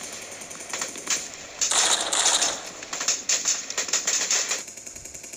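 Bursts of rapid automatic gunfire, densest and loudest about two seconds in, stopping about four and a half seconds in.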